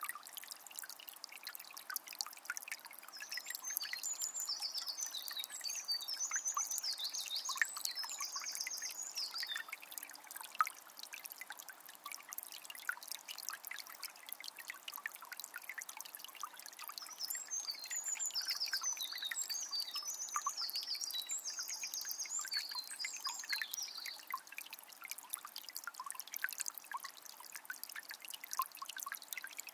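Calm forest river flowing, its water trickling and splashing steadily. A songbird sings two long stretches of rapid, high-pitched song, one starting about three seconds in and the other past the middle.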